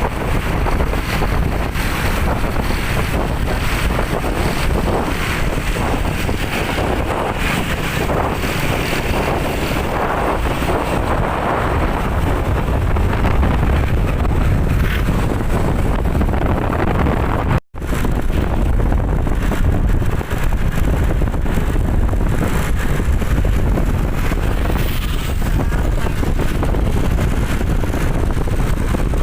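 A moving vehicle at road speed: steady low rumble with wind buffeting the microphone. The sound drops out completely for a moment about two-thirds of the way through.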